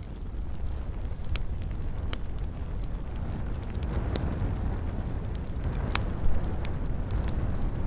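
Fire burning in a fireplace: a steady low rumble of flames with about five sharp crackles and pops scattered through it, the loudest a little past six seconds in.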